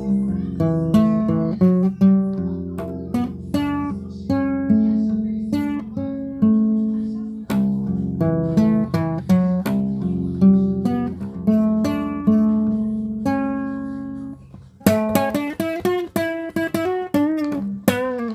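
Acoustic guitar played with plucked single notes over sustained bass notes, a slow melody. About fifteen seconds in it drops off briefly, then resumes with quicker notes that waver in pitch.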